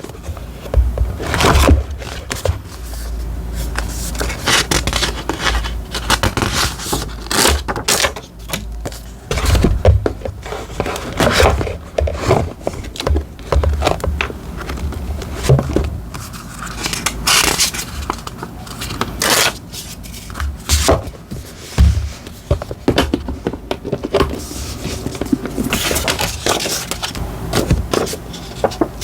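Paper and sticker materials being handled while decorating a diary: irregular rustling, crinkling and scraping with many sharp strokes.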